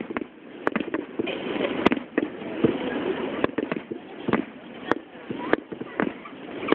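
Fireworks display: shells bursting in quick, irregular succession, sharp bangs several a second over a continuous noisy rumble.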